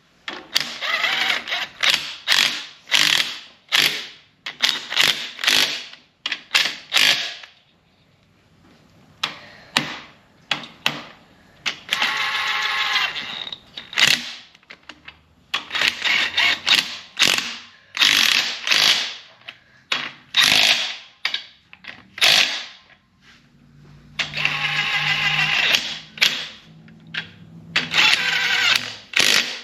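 Hand ratchet clicking in quick repeated strokes, with a couple of pauses and a few longer runs of fast clicking, as the lubed cylinder head bolts of a 5.9 Cummins are run down.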